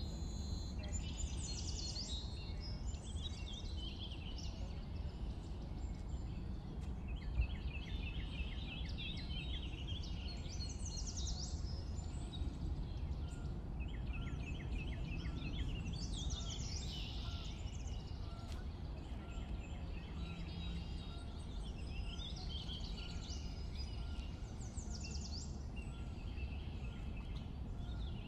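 Several birds singing and calling, some in rapid runs of short notes, over a steady low background rumble.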